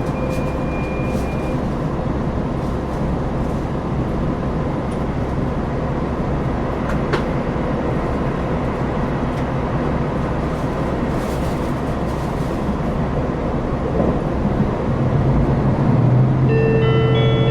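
KiHa 261 series diesel express railcar running under power, its engine drone and rail running noise heard from inside the passenger cabin, the engine tone growing stronger near the end. A chime of several clear notes starts near the end.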